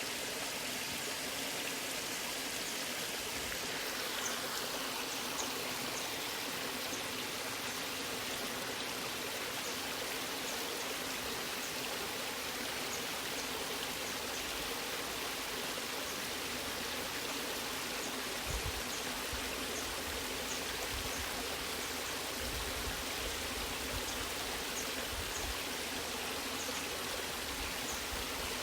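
Waterfall and running stream water rushing: a steady, even wash of noise with faint high ticks of splashing over it.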